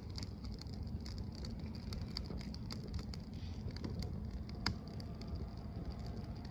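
Campfire crackling: scattered sharp pops over a steady low rumble, with one louder pop about four and a half seconds in.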